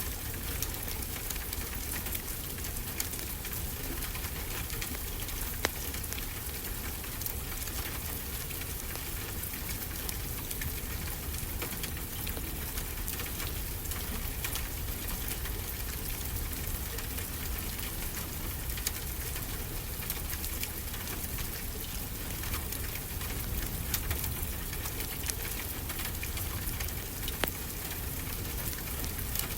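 Steady rain with scattered small crackles from a wood fire.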